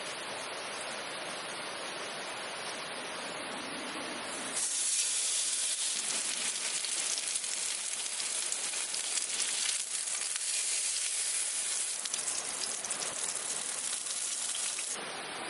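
A steady high hiss that starts abruptly about four and a half seconds in and cuts off abruptly shortly before the end, over a constant low rushing background.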